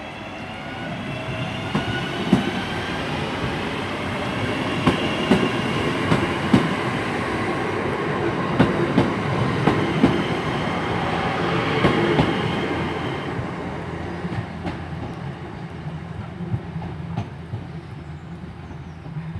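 Class 323 electric multiple unit pulling away, its traction equipment giving a rising whine as it gathers speed, with the wheels clicking over rail joints. The sound builds, then fades as the train draws away.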